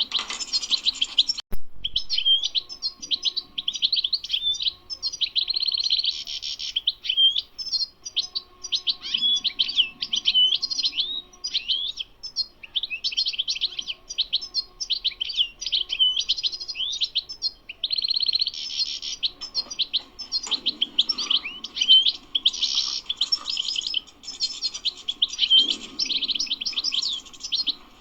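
European goldfinch singing: a long run of rapid, twittering chirps and fast trills, with only brief pauses.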